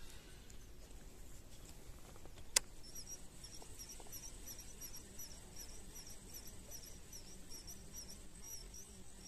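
A small bird's high chirps, repeated about three times a second, start about three seconds in. A single sharp click comes just before them.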